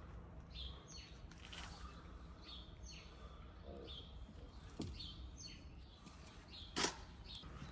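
A small bird chirping repeatedly, a short high call about once a second. A single sharp click stands out near the end.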